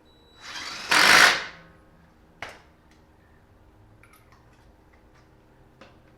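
Cordless impact wrench hammering on a wheel lug nut in one burst of about a second, followed by a single sharp metallic click and a few faint ticks.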